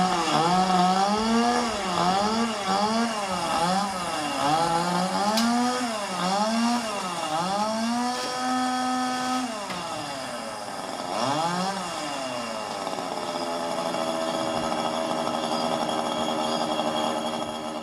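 Two-stroke chainsaw engine revving up and down repeatedly, about once a second, held high for a moment, then running more evenly near the end.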